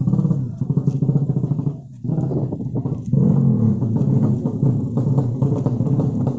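Drag-race underbone motorcycle engines revving in rapid pulses, with a short drop about two seconds in and a louder stretch from about three seconds. Background music plays under them.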